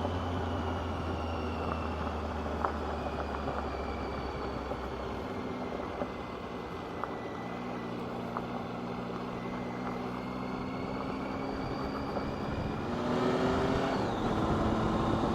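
Motorcycle engine running at a steady cruising pace on a gravel road, with road and wind noise and a few sharp ticks. About thirteen seconds in, the engine note rises and gets louder.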